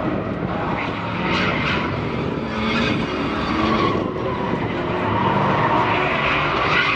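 Truck engine running hard at high revs with tyres spinning and skidding, as in a burnout; a loud, continuous noise throughout.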